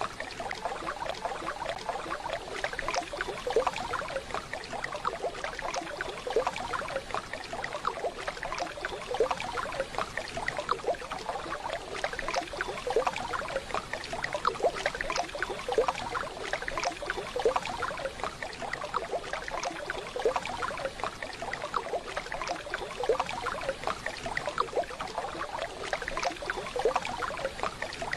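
Waterfall running water: a steady rush with constant small splashes and gurgles.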